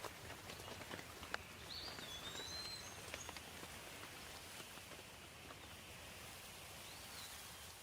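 Light, steady rain hiss with scattered drips. A bird gives short whistled, gliding calls about two seconds in and again near the end.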